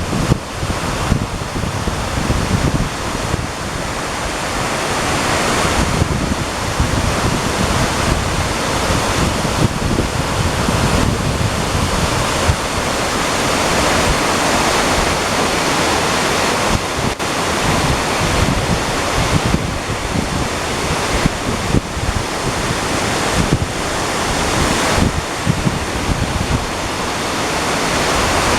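Waterfall's steady rush of falling water, with wind buffeting the microphone in a low, uneven rumble.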